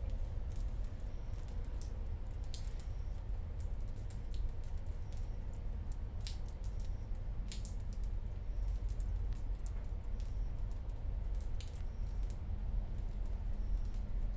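Rain falling, with irregular drops tapping and clicking close by over a steady low rumble.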